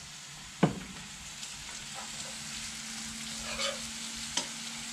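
Onion, tomato and garlic paste frying in oil in a pot on a propane burner, a steady sizzle, while a metal spoon stirs and scrapes. The spoon knocks sharply on the pot about half a second in, with a brief ring, and again more lightly near the end.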